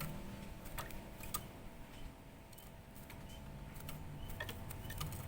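Faint scattered clicks and a few soft, short bird chirps over a low steady hum.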